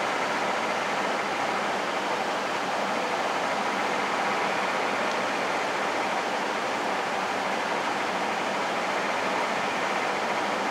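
Steady rushing hiss of a truck's heater blower fan running, with the 1991 Ford F-150's 4.9-litre inline-six engine idling faintly underneath on a cold start.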